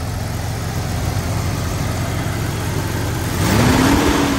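Jeep XJ engine idling steadily with a freshly cleaned throttle body and idle air control valve. About three and a half seconds in it is revved once by hand at the throttle linkage: the pitch rises quickly, then sinks slowly back toward idle.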